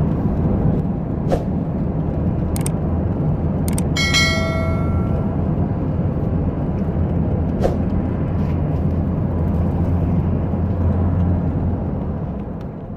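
Steady low rumble of a car on the move, heard from inside, with a few sharp clicks and a brief pitched tone about four seconds in. The sound fades away near the end.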